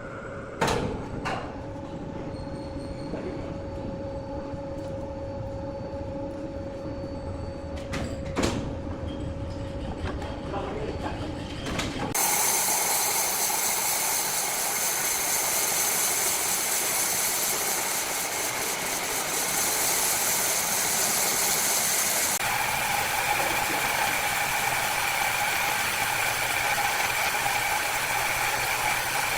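Wood-cutting saw machinery running, with a few sharp knocks early on. About twelve seconds in, a much louder, hissing saw noise with a steady whine starts abruptly and keeps going.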